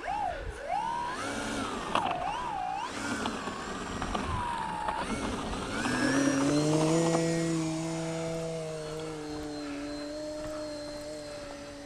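A radio-controlled foam-board biplane's motor and propeller. For the first six seconds or so the pitch swings up and down with the throttle, then it settles into a steady drone.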